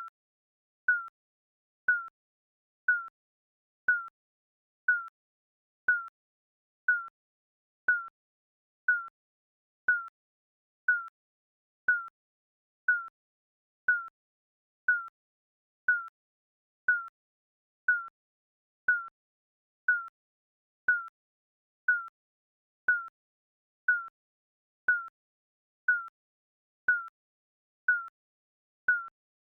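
Digital countdown timer beeping once a second: a short electronic blip, each one dipping slightly in pitch, with silence between.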